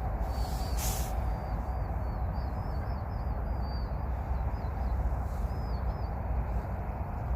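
A small bird giving a run of short, high chirps over a steady low rumble.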